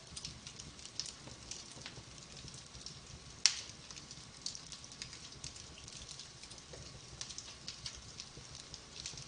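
Fireplace fire crackling steadily with scattered small pops, and one sharp, louder pop about three and a half seconds in.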